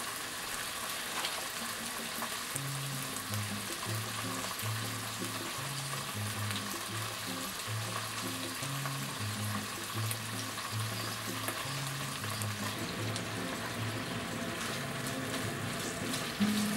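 Bacon and sliced garlic sizzling steadily in olive oil in a frying pan, with a brief louder rattle near the end as the pan is handled. A low line of background music notes plays under the sizzle.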